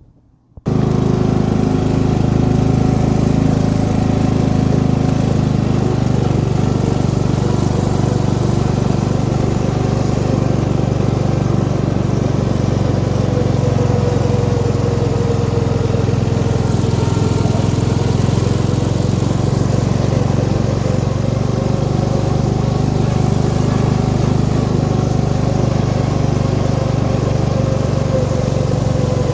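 MTD lawn tractor's small gas engine running steadily, coming in abruptly about a second in.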